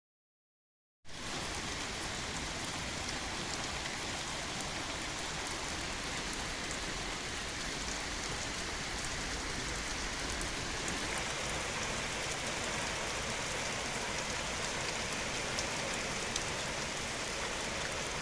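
Steady rain falling: an even hiss with scattered drop ticks, starting suddenly about a second in.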